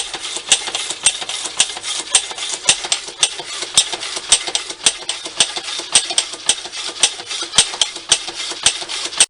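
A machine tool running as it cuts a replacement part for the drill, with a steady hiss and hum and rapid regular ticking about four to five times a second.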